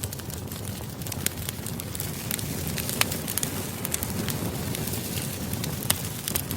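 Wood campfire burning: a steady low rush of flames with frequent sharp pops and crackles, a few of them louder snaps.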